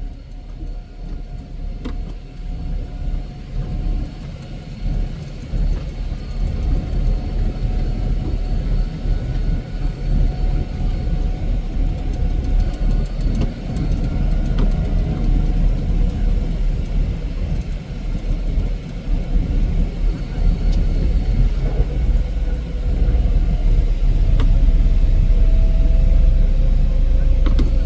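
Heavy snow-removal machine's engine running steadily, its sound mostly low-pitched and growing louder over the second half.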